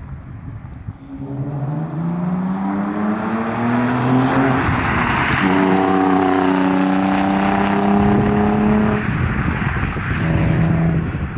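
Exhaust of a car with a 3.0-litre engine accelerating, its note climbing in pitch for a few seconds. It breaks loudly about five seconds in, holds a steady higher note, then drops away near the end.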